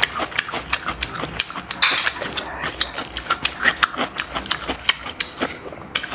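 Close-miked mouth sounds of a person chewing grilled snail meat: wet smacking and a quick, irregular run of sharp mouth clicks, several a second.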